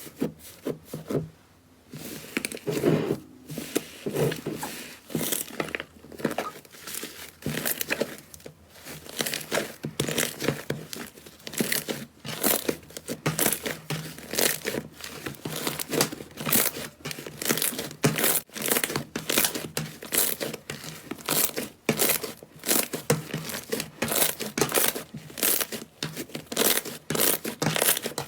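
Slime being squeezed and worked by hand, giving a dense, irregular crackling and popping, with a short lull about a second and a half in.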